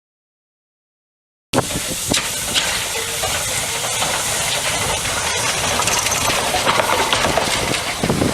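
Silence, then about a second and a half in a steam tank locomotive starts to be heard: a steady hiss of steam with scattered clicks and knocks.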